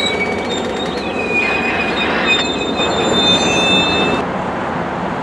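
Trinity Railway Express commuter train rolling by, its wheels rumbling steadily on the rails with a high, wavering wheel squeal.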